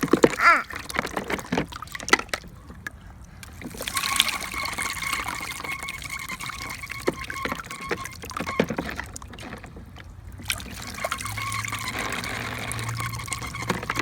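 Water trickling and splashing in a child's plastic water table, with scattered small clicks.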